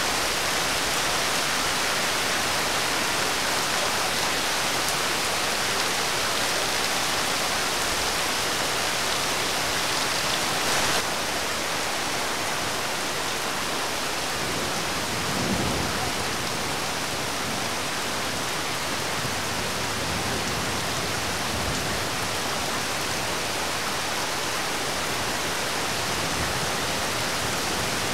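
Steady rain falling on a road and roofs, an even hiss. A vehicle passes on the wet road about halfway through.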